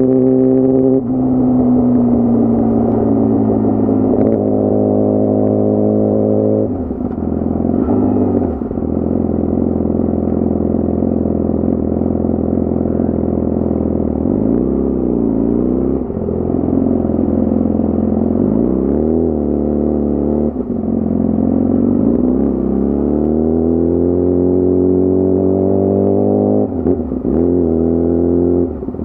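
Yamaha R6 sport bike's inline-four engine at high revs under hard riding. Its pitch climbs steadily while accelerating, then falls away sharply several times as the throttle closes, with short wavy blips in between.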